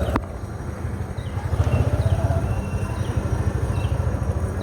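Motorcycle engine running with a steady low rumble, while a short high chirp repeats about every half second. A click sounds right at the start.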